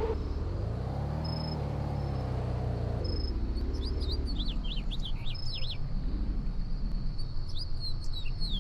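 Car engine blipped once, its pitch rising and falling about a second in, then settling to an idle that pulses in loudness. Birds chirp over it from a few seconds in.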